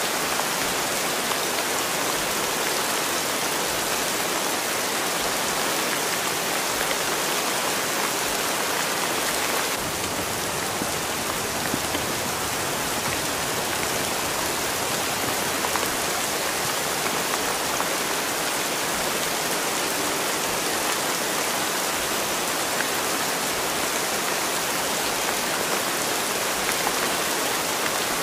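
Steady rain ambience: an even, unbroken hiss of falling rain, shifting slightly in tone about ten seconds in.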